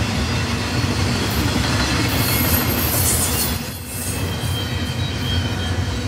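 Double-stack intermodal container train's well cars rolling past, a steady low rumble of steel wheels on rail. A high-pitched wheel squeal rises about two seconds in and fades about a second later, and the rumble dips briefly just past halfway.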